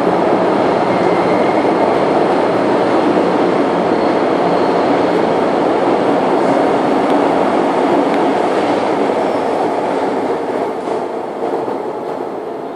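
MTR Island Line M-train running through an underground station platform without stopping: a loud, steady rumble of wheels and running gear on the track that begins to fade away over the last couple of seconds.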